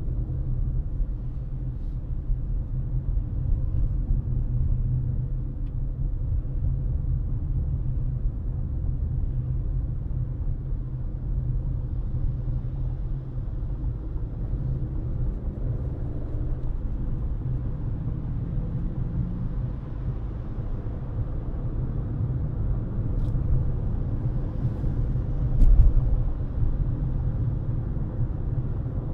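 Car driving at speed: a steady low rumble of road and tyre noise, with one short low thump near the end.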